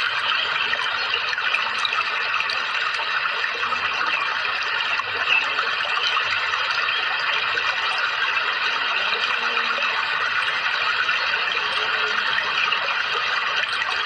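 Steady running water, an even rushing and trickling that holds level throughout.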